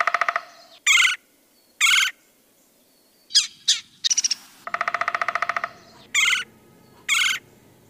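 Recorded eagle calls: a fast, buzzy rattling call alternates with short, high, sweeping whistled notes, and the same sequence repeats about every five seconds.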